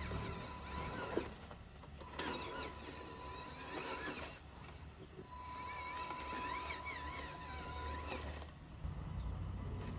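Small electric motors of radio-controlled construction machines running with a whine, including a steady high tone that drops out twice, over a low hum.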